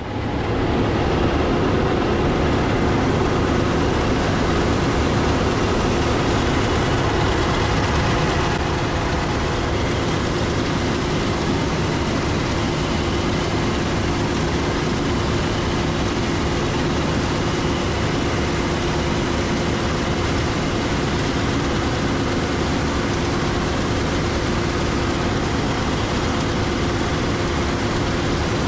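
Heavy diesel harvest machinery running steadily at work during wheat harvest, a dense engine and machine noise with a constant hum, a little louder for the first several seconds.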